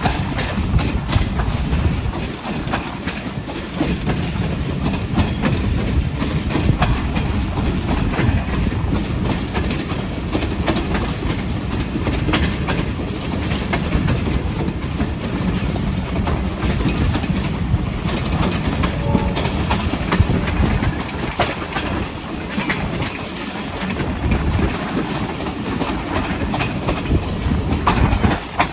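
Hazara Express passenger train moving along the track: a steady, loud rumble of the carriages, with the wheels clattering over the rail joints.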